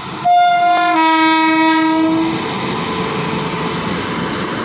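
Indian Railways electric locomotive sounding its horn once for about two seconds, dropping to a lower, fuller tone after about half a second. The passenger coaches then keep rolling past with a steady rumble and wheel clatter.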